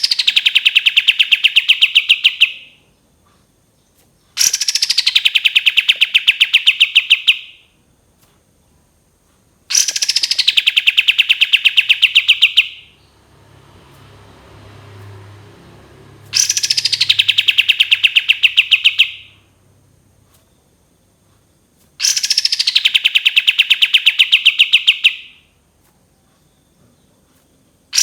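Kapas tembak songbird singing its long 'tembakan' trill five times, about every six seconds. Each burst lasts about three seconds: a high note slides down into a fast, even rattle of sharp notes. A faint low hum is heard in the longer gap midway.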